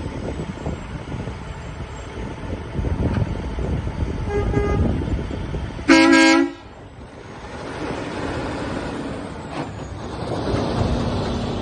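A vehicle horn gives one short, loud blast about halfway through, lasting under a second. A fainter short toot comes about a second and a half before it. A steady low engine rumble runs underneath.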